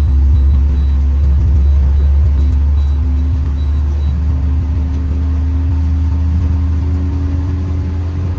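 Toyota Carina's 5A-FE four-cylinder engine and road noise while driving: a steady low drone holding at an even speed.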